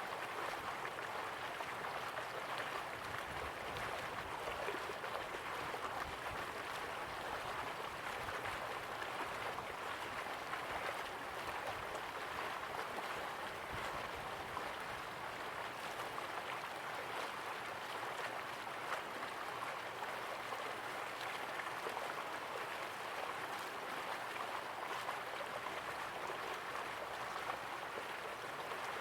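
Slow-flowing river water, a steady gentle rush with small irregular splashes and gurgles.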